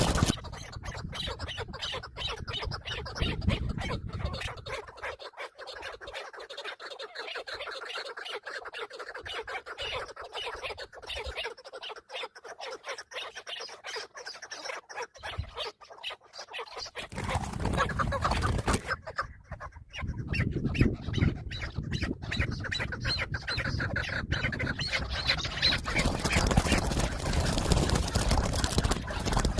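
Chukar partridge calling over and over in short, clucking notes, with a low rumble underneath at the start and again through the second half.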